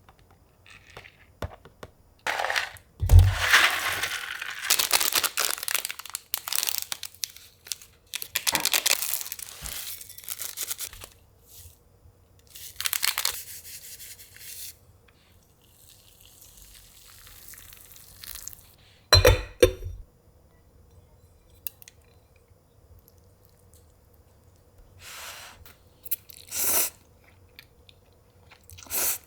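Irregular bursts of rustling, crinkling and tearing, with a sharp knock a little after the middle and a few shorter knocks near the end.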